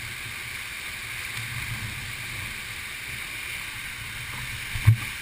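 Steady rush of a waterfall and its churning water, with an uneven low rumble underneath and a single sharp knock near the end.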